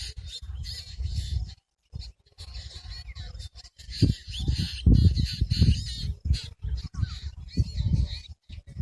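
Several birds calling and chirping in short, quick bursts over a gusty low rumble, with the sound dropping out briefly a couple of times.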